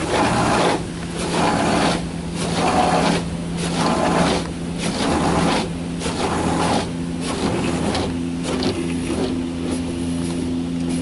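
Automatic car wash rinse: water spray from the gantry nozzles beating on the car in pulses about once a second, over a steady pump or motor hum whose pitch steps up about halfway through.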